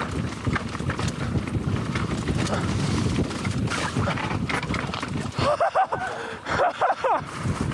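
Mountain bike rattling and clattering over a rough, bumpy trail, with wind on the microphone. About two-thirds through, a few short squealing, wavering tones cut through the clatter.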